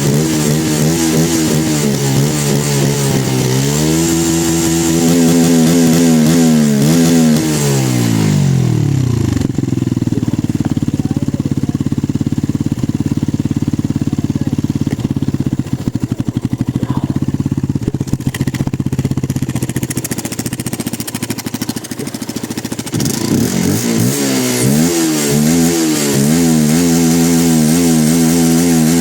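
Benelli 125S motorcycle engine on its stock exhaust, revved up and down, dropping to a steady idle for about thirteen seconds, then revved again in quick throttle blips near the end.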